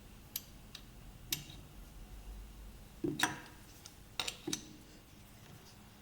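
Sparse light clicks and taps of small metal parts being handled, a few single ones and then two short clusters about three and four seconds in.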